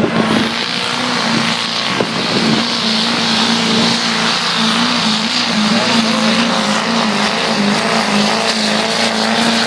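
Pickup truck engine held at high revs under heavy load while pulling the sled, its pitch steady and wavering only slightly, with a hiss of tyre and exhaust noise over it.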